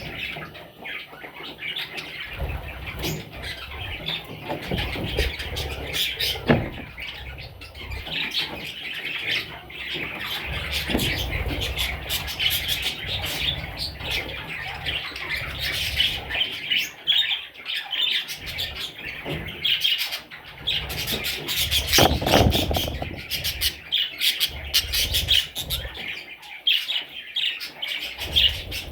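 Budgerigars chirping and chattering continuously, many short calls overlapping.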